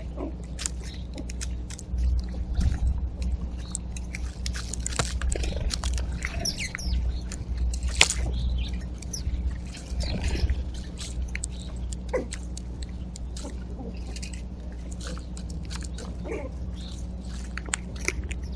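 Backyard birds calling and chirping in short scattered notes, with many short clicks and taps throughout, over a steady low rumble.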